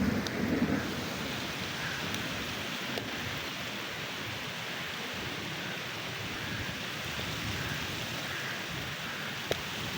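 Heavy rain falling steadily, with a short low rumble at the very start and a single sharp tick near the end.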